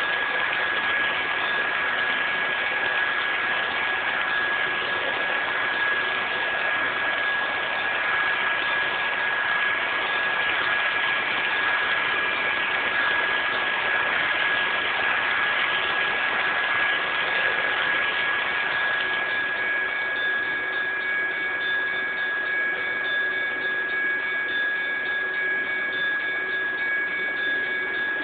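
HO scale model coal train running on the layout: a steady hiss of noise with a constant high whine through it, and a couple of fainter tones joining about two-thirds of the way through.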